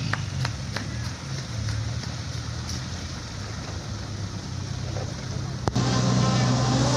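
Diesel engine of a Toyota Dyna dump truck running steadily, with a few light clicks in the first second or so. About two-thirds of the way in a sharp click, then the engine runs louder with a higher note.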